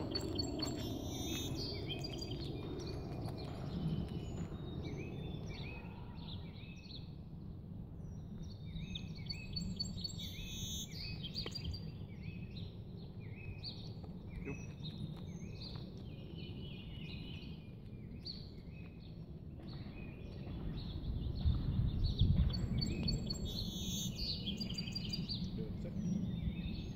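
Songbirds chirping and singing, many short repeated calls, over a steady low rumble that swells about three-quarters of the way through.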